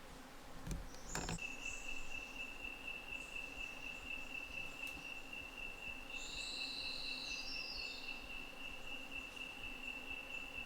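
An insect trills at one steady high pitch, starting about a second and a half in and holding unbroken. A short bird call with a few quick, falling notes comes near the middle. Two faint clicks come just before the trill starts.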